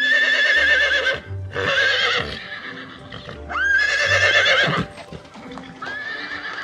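Horse whinnying four times in a row, each neigh a high-pitched, quavering call about a second long.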